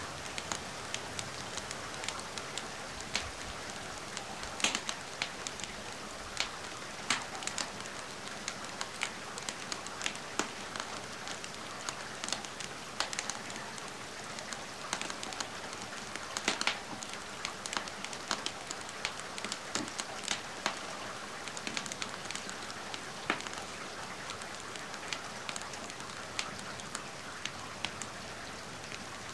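Steady rain falling on a surface mixed with a wood fire crackling, its sharp pops coming at irregular moments.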